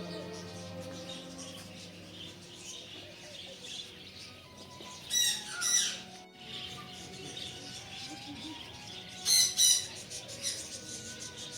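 Loud, harsh bird squawks: a quick double call about five seconds in and another pair about four seconds later, over a background of softer bird chatter.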